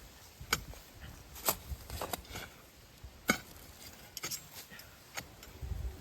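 Hand hoe chopping into hard ground, with irregular sharp strikes, about nine in six seconds, some landing in quick pairs.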